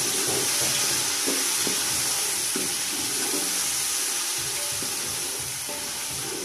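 Boiled green chickpeas and fried onions sizzling in hot oil in a large aluminium pot, stirred with a wooden spoon that scrapes and knocks against the pot now and then.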